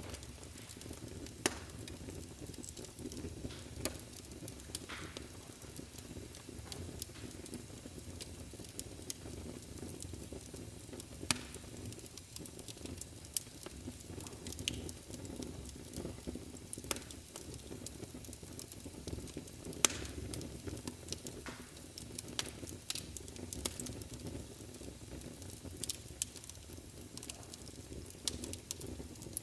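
Fire burning in a fireplace: a low steady rumble under irregular crackling, with a few louder sharp pops.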